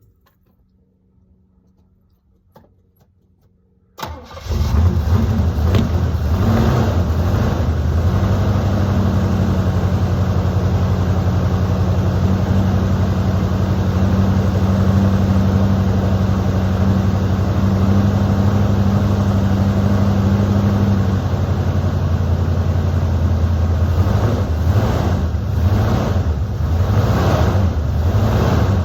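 Chevrolet 305 small-block V8 in a 1981 Monte Carlo, breathing through a three-chamber Flowmaster into dual exhaust, firing up from cold about four seconds in. It catches almost at once and settles into a steady, loud cold idle, which turns uneven and pulsing near the end.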